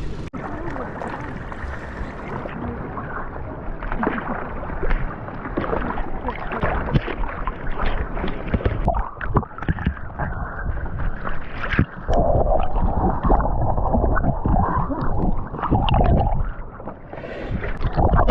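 Muffled water sloshing and gurgling around a camera at or just under the sea surface during snorkeling, with irregular knocks and bumps and a low rumble.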